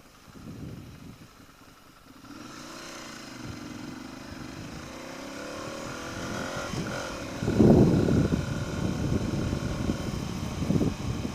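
2013 Ducati Monster 696's air-cooled L-twin engine pulling away and accelerating, its pitch rising steadily over several seconds. From about two thirds of the way in, loud gusting wind noise on the microphone joins it as the bike gathers speed.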